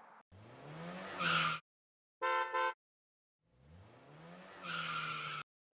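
Car engine sound effects revving up twice, each ending in a short screech, with two quick horn toots in between.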